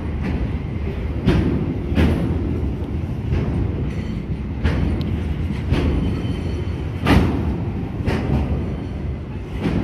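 Freight train of covered hopper wagons rolling past: a steady low rumble of wheels on rail, with a sharp clack every second or so as the wheels pass over rail joints.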